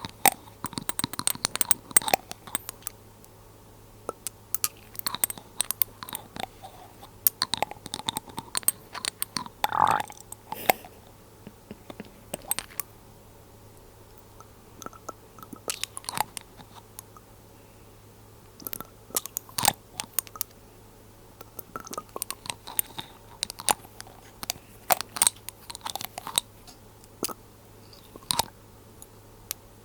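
Glass dropper bottle handled close to the microphone: irregular clusters of small, sharp glass clicks and taps, with pauses of a second or two between them.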